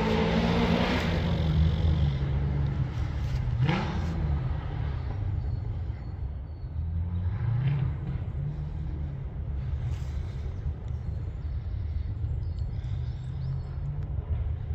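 Comp safari off-road race vehicle engines: an engine dies down from high revs, is blipped up sharply about four seconds in and again a few seconds later, over a steady low engine rumble.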